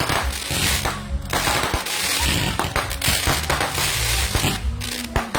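Fireworks crackling: a dense, rapid run of small pops and cracks with no break, like a firecracker string or crackling ground fireworks.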